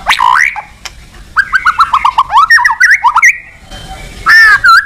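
White-rumped shama (murai batu) in full song. It opens with a loud sweeping note, then a fast run of short chirps, about ten in a second, that turns into more varied notes, and ends with a loud whistle near the end.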